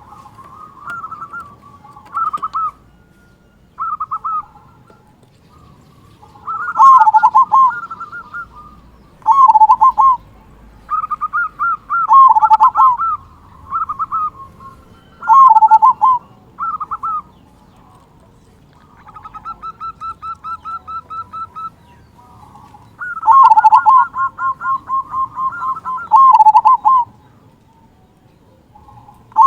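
Zebra dove (perkutut) singing its cooing song over and over: each phrase is a run of quick staccato notes ending in loud, dipping 'kung' coos, with short pauses between phrases. About 19 seconds in there is a softer run of even, rapid notes.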